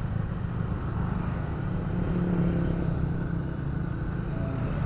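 Motorcycle engine running as the bike moves off and rides on through traffic, over steady road noise; the engine note strengthens about two seconds in.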